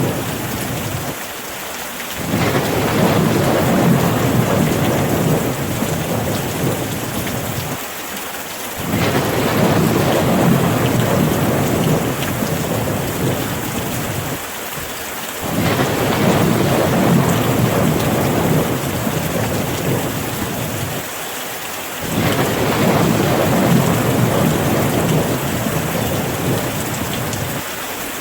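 Steady rain hissing down, with low rolling rumbles of thunder swelling and fading four times at even intervals of about six to seven seconds.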